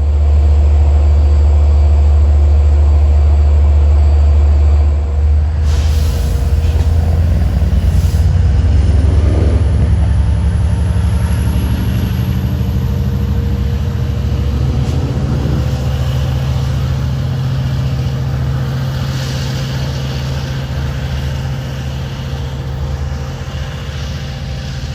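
Diesel locomotive of a passenger train running loud and low, with a short hiss of air about six to eight seconds in. The engine note then rises and the sound slowly fades as the train pulls away.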